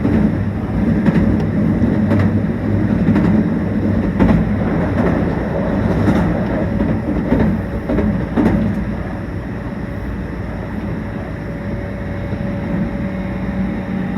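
Meitetsu 1800 series electric train running at speed, heard from on board: a steady rumble with sharp wheel clicks over rail joints about once a second, which give way to smoother, slightly quieter running about two-thirds of the way through.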